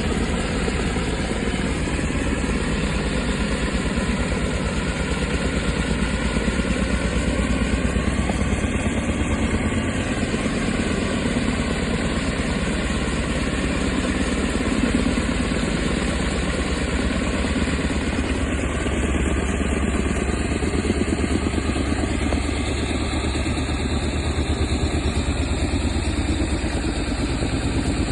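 Helicopter running steadily, its rotor and engine giving a fast, even beat that holds at the same level throughout.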